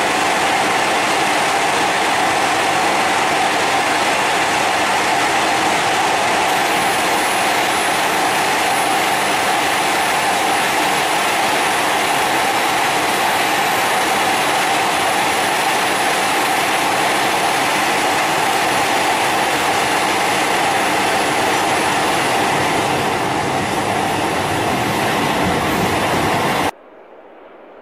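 Italo AGV high-speed electric train running past: steady rolling and running noise with a thin high whine over much of it. It cuts off abruptly near the end.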